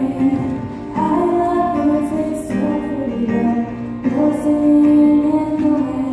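Choir singing a song in held notes that move from one pitch to the next.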